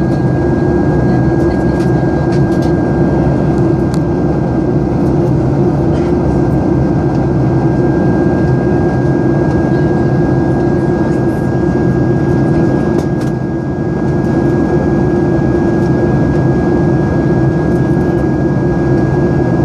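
Cabin noise inside a Boeing 737-800: its CFM56 jet engines and the airflow make a loud, even noise, with a thin steady whine held above it.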